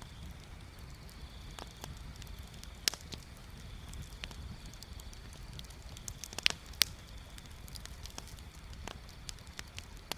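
Wood bonfire crackling: scattered sharp pops and snaps, the loudest a little before 3 s and a quick cluster around 6.5 s, over a low steady rumble.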